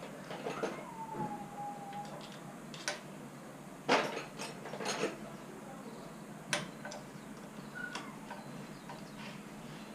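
Metal engine parts clinking and knocking as they are handled during reassembly of the engine's top end, with a thin squeak just after a second in. The loudest knock comes about four seconds in.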